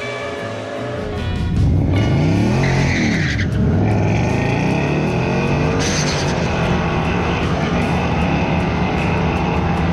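A Ford Mustang launching on a drag strip: the engine revs up and down, then runs loud and steady at full throttle as the car pulls away down the track.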